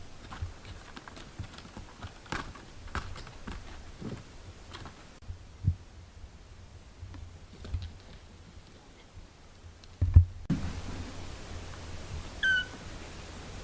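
Scattered small clicks and rustles with a few low thumps, the loudest a little past two-thirds of the way through. Near the end a six-day-old kitten gives one short, high mew.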